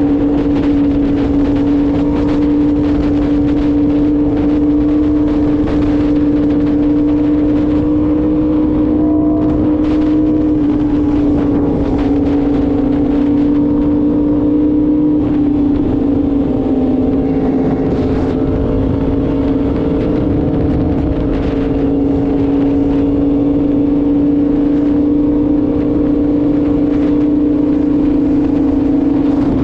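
Yamaha R1M's crossplane inline-four engine running at a steady cruise, its pitch holding nearly level and dropping slightly about halfway through, over a steady rushing noise.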